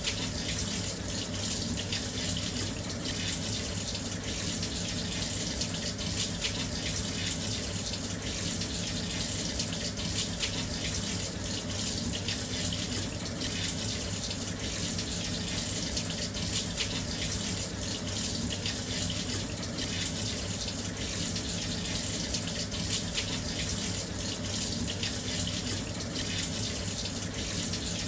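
Washing machine filling with water: a steady, unbroken rush of water pouring into the drum, with a faint low hum underneath.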